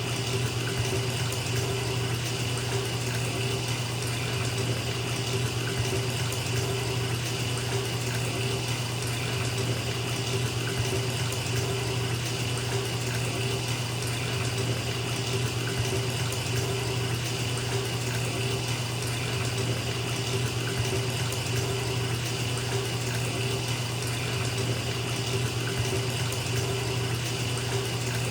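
Bathtub filling from the tap: a steady, unbroken rush of running water with a low drumming underneath.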